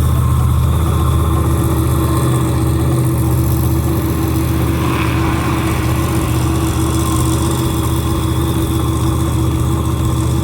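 Large engine idling steadily, with a low, even hum.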